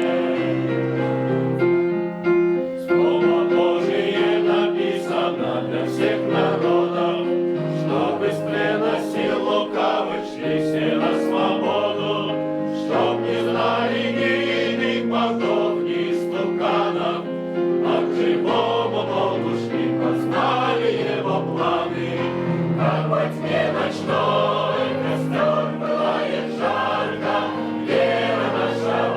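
Choir singing a gospel-style spiritual song, several voices holding notes together in harmony.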